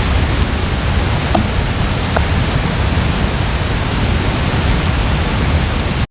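Steady, loud rushing noise, heaviest in the low end, with a few faint clicks; it cuts off abruptly just before the end.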